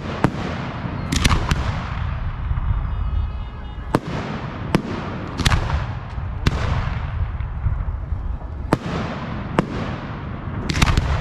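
Aerial fireworks shells bursting: about ten sharp bangs at uneven spacing, some in quick pairs or clusters, each trailing off in a fading crackle, over a steady low rumble.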